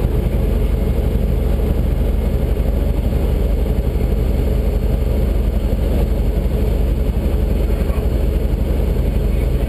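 Fire brush truck's engine running steadily, a constant low drone that does not change.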